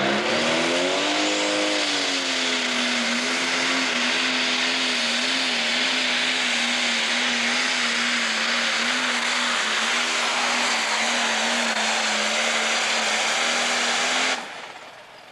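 Pro stock pulling tractor's turbocharged diesel engine running flat out under load through a pull. Its pitch climbs over the first two seconds, then holds nearly steady with slight wobbles, and the sound stops abruptly about a second before the end.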